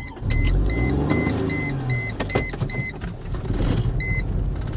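Mercedes E320 wagon's engine starting and catching, its note rising then settling, after stalling on fuel dosed with laundry detergent. A dashboard warning chime beeps about four times a second over the first three seconds, then once more near the end.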